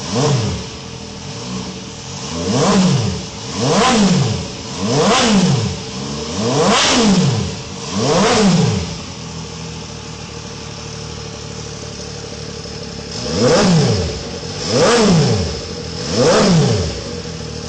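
A superbike engine being revved with quick throttle blips, each rising and falling in pitch within about a second: a run of six, a few seconds of steady idle, then three more near the end.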